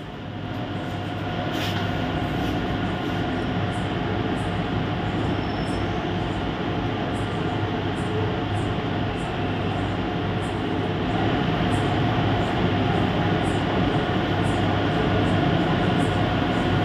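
Passenger train moving along the platform: a steady rumble and hum of the running coaches, getting somewhat louder about two-thirds of the way through.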